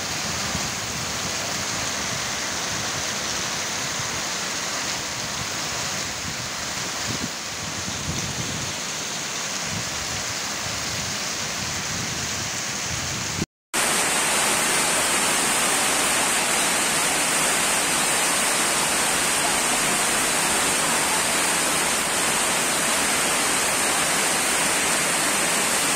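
Heavy rain falling, a steady hiss of downpour and running water. It cuts out for a moment about halfway through, then the steady rain sound resumes.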